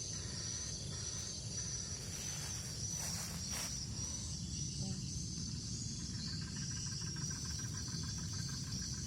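Steady high-pitched insect chorus of crickets or cicadas over a low outdoor rumble, with a brief rustling swish about three seconds in.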